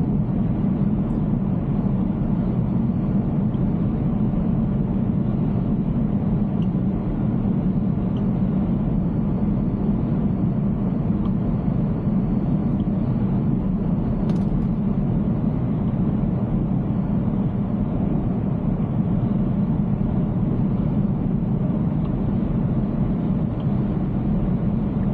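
Steady low road and tyre noise of a Tesla Cybertruck driving on wet roads, heard from inside the cab. The electric truck has no engine note, only an even rumble.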